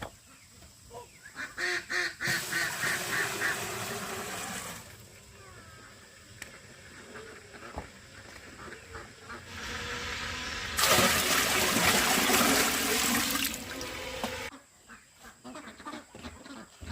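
Ducks quacking in quick repeated calls, with two stretches of rushing noise a few seconds each, the second the loudest.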